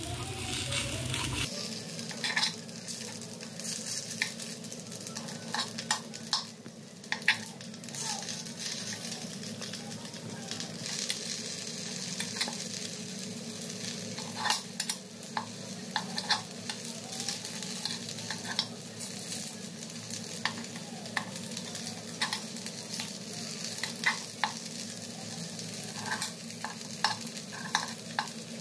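Rava appe sizzling in oil in an appe pan while a metal spoon turns them over one by one. The steady sizzle is broken by frequent sharp clicks and scrapes of the spoon against the pan.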